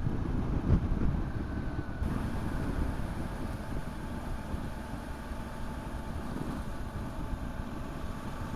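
Motorcycle running at road speed, its engine note under a steady wind rumble on the microphone, with a brief thump under a second in.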